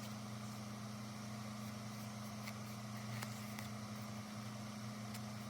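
A steady low hum with a few faint light clicks or taps scattered through it.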